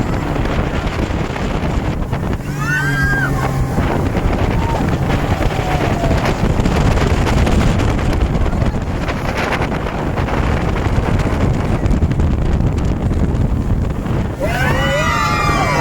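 Speedboat running fast over open water: steady engine and hull noise with heavy wind buffeting on the microphone.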